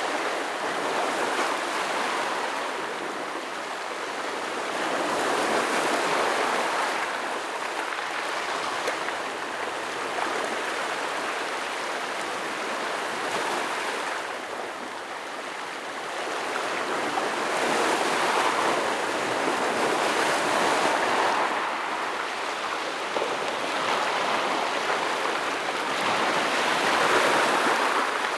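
Ocean waves breaking and washing over shore rocks: a continuous rushing surf that swells and ebbs every several seconds.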